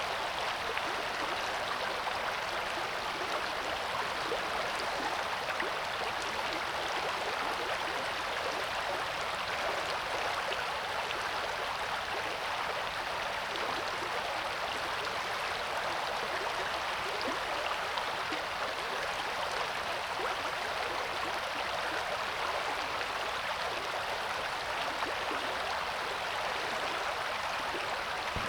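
River water rushing and babbling in a steady, even stream of noise, with no change through the stretch.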